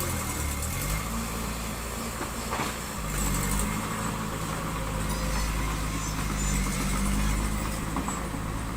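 Diesel engine of a construction machine running under varying load. Its speed dips briefly at the start, picks up again about a second in, and keeps rising and falling as it works.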